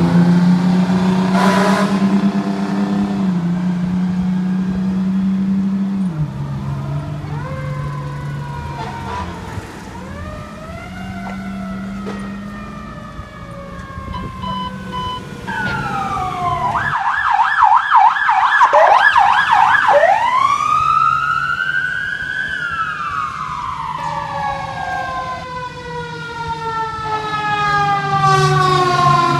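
Fire apparatus sirens wailing, with more than one siren rising and falling at once. About two-thirds of the way in, one switches to a fast yelp for a few seconds, then goes back to a slow wail. A low steady horn sounds at the start and again near the end.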